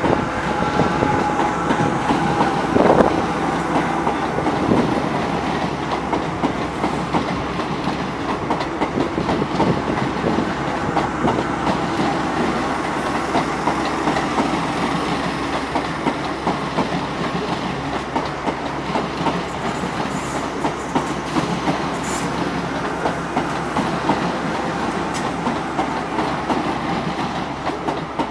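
Class 325 electric multiple unit, three four-car sets coupled, running through a station: a steady, loud rumble of wagons passing, with the wheels clattering over the rail joints.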